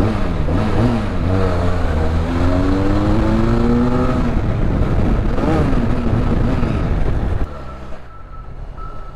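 Benelli Leoncino 500's parallel-twin engine on its stock exhaust, accelerating hard through the gears in a tunnel. The pitch climbs, dips at each gear change and climbs again, then the sound drops suddenly as the throttle is closed about seven and a half seconds in.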